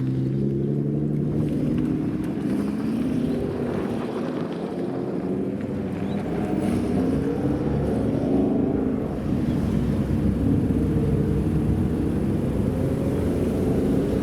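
A supercar's engine running, its note wavering up and down and climbing slowly near the end.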